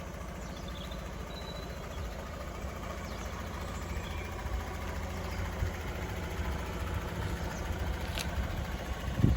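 Fiat 500's 0.9 TwinAir turbocharged two-cylinder engine idling with a steady low pulsing rumble. A sharp click comes about eight seconds in, and a thump just before the end.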